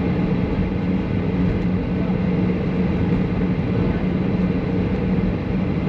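Steady cabin noise inside a Boeing 737 taxiing after landing: an even rush with a constant low hum.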